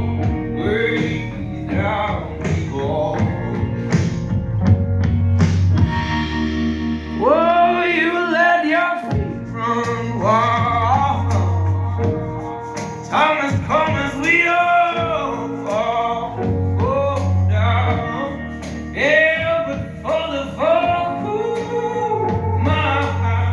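A song with male vocals and instruments played back through a Bose SoundTouch 10 wireless speaker. It has a strong bass line that comes and goes in sections, dropping out briefly about nine seconds in.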